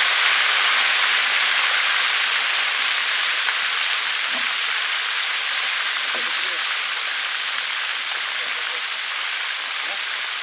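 Crucian carp frying in hot oil in a kazan: a loud, steady sizzle that eases slightly over the seconds.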